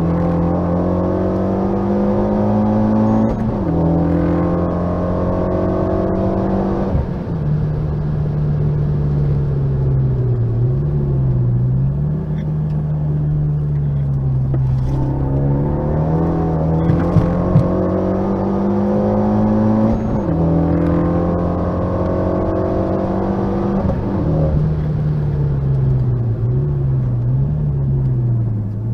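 Renault Mégane RS 265's turbocharged 2.0-litre four-cylinder engine, heard from inside the cabin at track pace. The note climbs in pitch under acceleration and drops sharply at upshifts about three seconds in, again around seven seconds in and twice more near twenty and twenty-four seconds. Between these pulls it holds a lower, wavering note.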